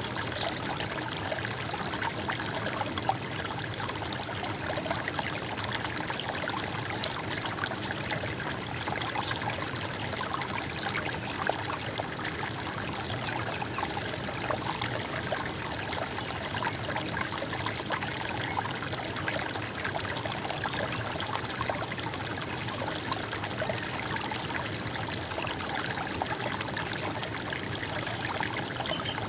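Running water in a stream, a steady gurgling, trickling flow.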